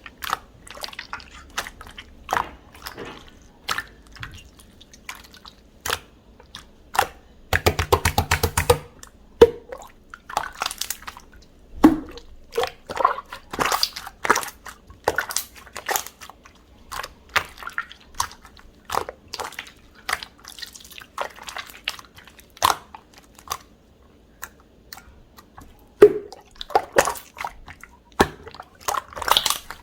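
Clear slime being pressed, poked and stretched by hand: a steady run of sticky clicks, pops and squelches, with a fast crackling run of pops about eight seconds in.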